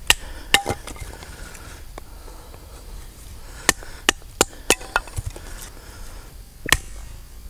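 Glock field knife chopping into wet wood: sharp knocks, two near the start, then a quick run of five, then one more near the end.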